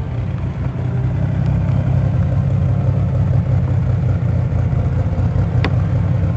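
A car engine running with a deep, steady rumble, and one sharp click about five and a half seconds in.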